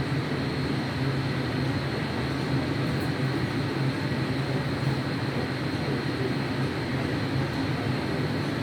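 Airplane engine running steadily with an unchanging drone and a faint steady high whine.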